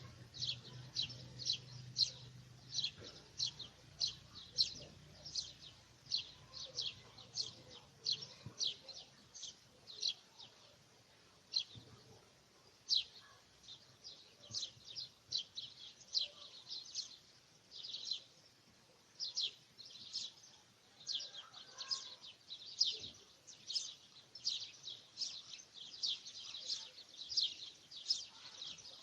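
Small birds chirping: a continuous run of short, high chirps, two or three a second, with a faint low hum under the first several seconds.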